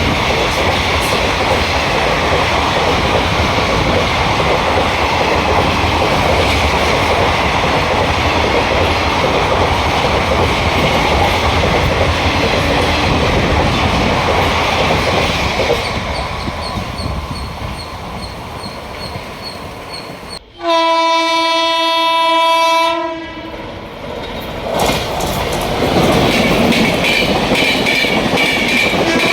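WAP-7 electric locomotive and its express train running past at speed, wheels clattering over the rail joints, the rumble fading away. Then a single-note locomotive horn sounds one long blast of about two and a half seconds, and another passing train's noise and horn start up near the end.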